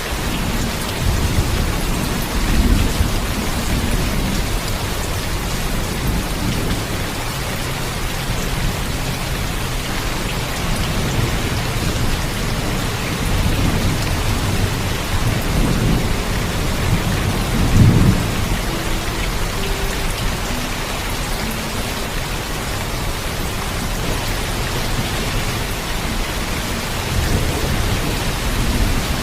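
Heavy steady rain with rolling thunder: low rumbles swell and fade several times, the loudest about 18 seconds in, over the constant hiss of the rain.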